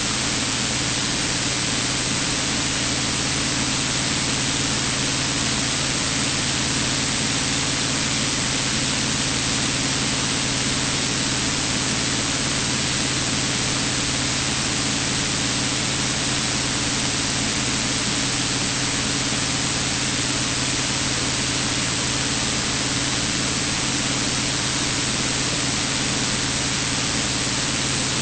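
Steady cabin drone of a Cessna 182's piston engine and propeller in cruise, an even hiss with a low steady hum under it.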